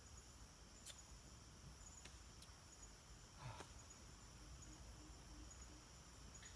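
Near silence: a faint, steady high-pitched insect chirring, broken by a few light clicks or knocks, the loudest about three and a half seconds in.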